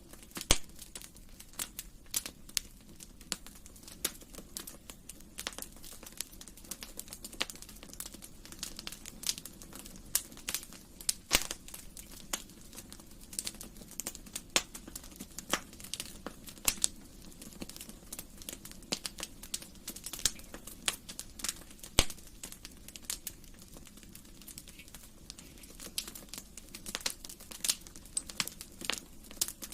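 Wood fire crackling in a fireplace: irregular sharp pops and snaps, some louder than the rest, over a faint low hiss of the flames.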